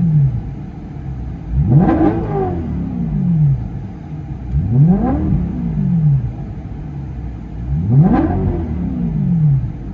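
2011 BMW M3's 4.0-litre V8 revved three times, about every three seconds, each rev climbing and then falling back to idle, heard from inside the cabin. It breathes through factory converters, an aftermarket X-pipe with resonators and a Meisterschaft axle-back exhaust.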